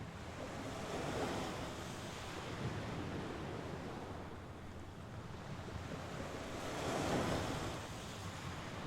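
Mediterranean Sea waves washing onto the shore, the surf swelling and falling back twice, about a second in and again about seven seconds in.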